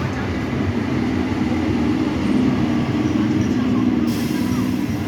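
Electric suburban local train running, a steady rumbling noise of the train in motion.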